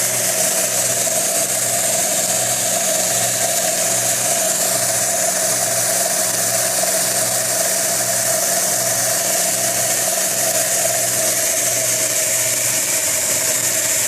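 Homemade belt sander, driven by an old bandsaw's electric motor, running steadily with a motor hum and the hiss of the moving belt. A low pulse repeats about one and a half times a second.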